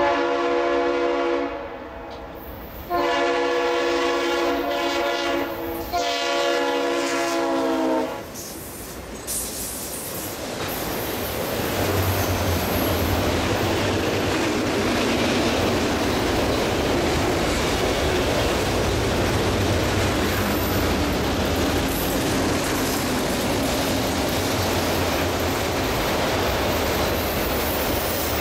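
A Norfolk Southern freight train's lead diesel locomotive sounds its air horn in three blasts, the middle one the longest. The train then passes at speed, its long string of empty autorack cars rolling by with a steady, loud noise of wheels on rail.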